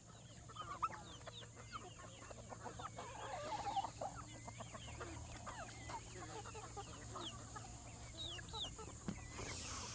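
A flock of chickens clucking, faint, with many short calls overlapping.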